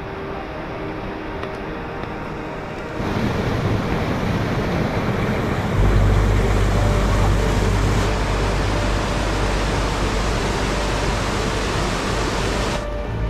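Rain-swollen mountain stream rushing hard over rocks, starting suddenly about three seconds in, with a deep rumble joining a few seconds later, then cutting off abruptly just before the end. Soft background music underneath at the start.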